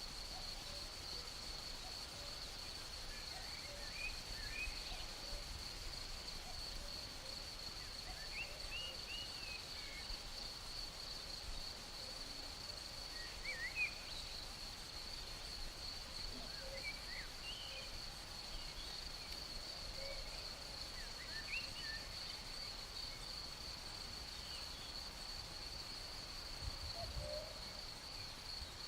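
Natural outdoor ambience: insects trilling steadily on one high, unbroken note, with scattered short bird chirps and calls over it.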